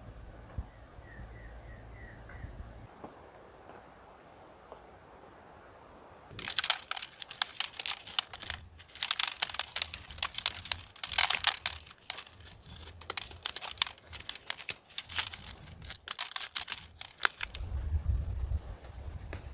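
Insects chirring steadily at a high pitch; about six seconds in a long stretch of dense, irregular crackling and crinkling begins, loud and close, and stops near the end.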